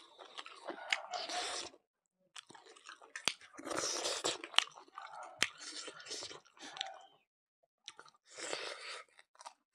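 A person chewing mouthfuls of mutton curry and rice, in bursts with short pauses, with a few sharp clicks from the mouth.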